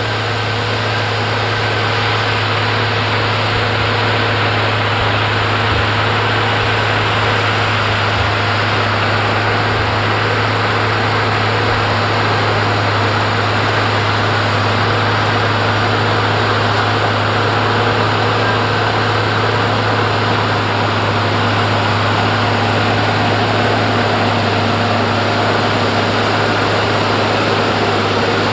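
Case Steiger 9370 tractor's six-cylinder turbo diesel running steadily at constant working speed, a deep even hum with no change in pitch or level.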